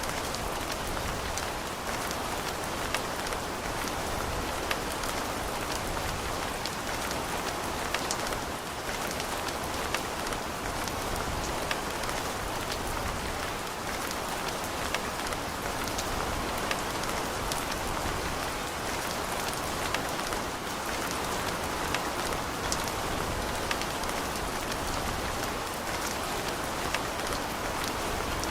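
Steady rain, with many individual drops ticking against a surface close by.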